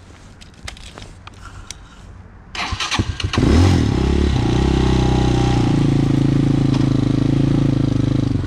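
Hawk 250 motorcycle's single-cylinder engine being started: a few light clicks, then a brief crank about two and a half seconds in. It catches with a burst of revs, then settles into a steady idle.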